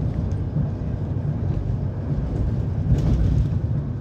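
Steady low rumble of a moving passenger train heard from inside the coach, wheels running on the rails, a little louder about three seconds in.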